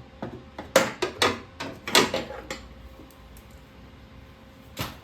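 Sharp knocks, about six in quick succession over the first two and a half seconds and one more near the end, as a part is struck to pop it loose.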